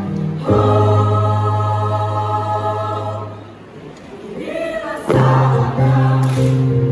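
High-school choir singing sustained chords over a deep bass line. A long held chord fades out about three and a half seconds in, voices slide upward, and a new full chord enters about five seconds in.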